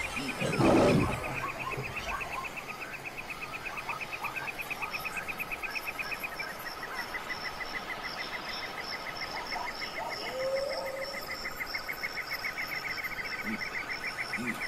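Crickets chirping in a fast, even, pulsed trill, with a second, higher-pitched chirping joining about five seconds in. A brief loud low sound about a second in.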